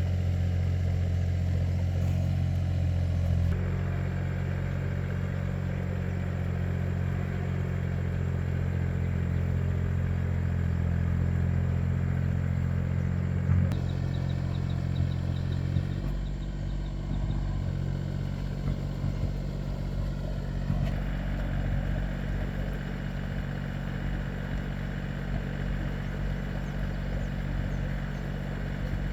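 Tractor engine running steadily with a clattering beat. Its note shifts a few seconds in, then drops lower and rougher about sixteen seconds in.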